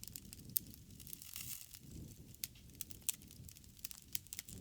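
Wood fire crackling: irregular sharp pops and snaps over a soft low rumble of burning.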